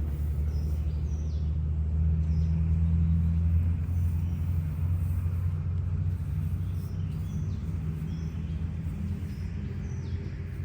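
A motor engine running steadily with a low hum, swelling about two to four seconds in and then easing off.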